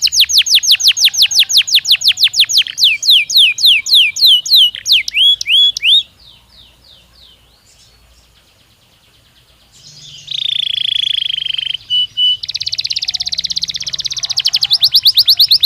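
Domestic canary song: a fast trill of repeated sweeping notes, about eight a second, that breaks off about six seconds in. After a few quieter seconds comes a held whistled note and then a buzzy roll, and the fast trill starts again near the end.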